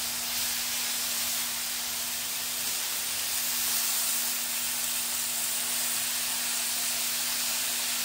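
Chicken frying with a steady hissing sizzle, a faint low hum held underneath.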